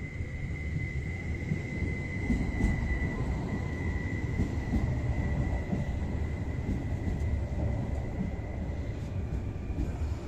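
Electric passenger train moving along the platform: a low rumble of wheels on rails under a steady high whine from the drive, which steps up slightly in pitch near the end.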